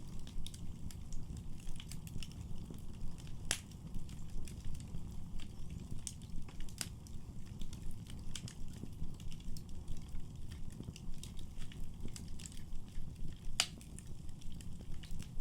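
Wood fire burning in a fireplace: a steady low rumble of flames with irregular crackles and pops, two sharper pops standing out, one a few seconds in and one near the end.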